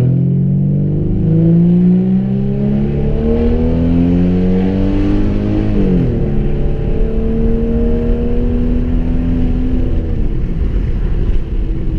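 A 2011 Dodge Charger's straight-piped 3.6-litre V6 under full throttle in a rolling pull, its exhaust note climbing in pitch. About six seconds in the pitch drops sharply at an upshift, climbs again more slowly, and falls near the end as the throttle is lifted.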